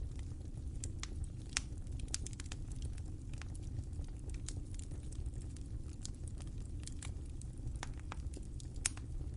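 Fire crackling: irregular sharp pops and snaps over a steady low rumble, with two louder pops, one about a second and a half in and one near the end.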